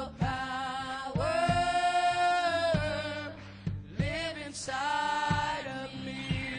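Gospel group singing with band accompaniment in a church service, holding long sustained notes over a steady low backing.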